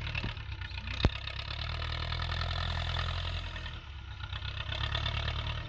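Tractor engine running steadily while ploughing, a fast, even low chugging, with a single sharp click about a second in.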